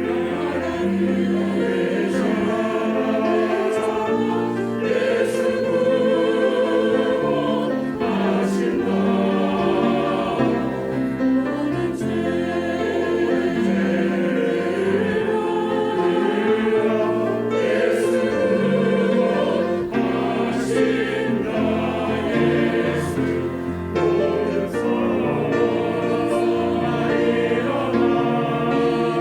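Church choir singing an anthem in parts, with sustained, overlapping voices.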